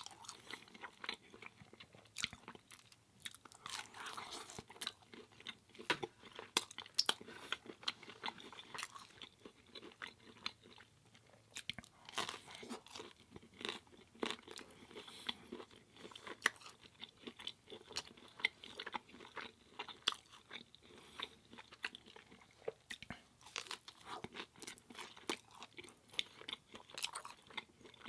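A person chewing baked vegan pizza, with irregular crisp crunches of the crust.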